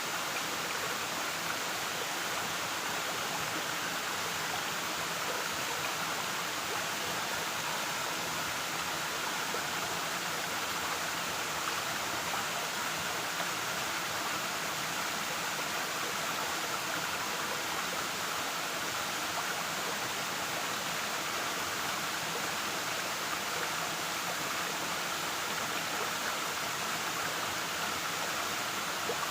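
Waterfall with water rushing steadily, an even hiss with no breaks.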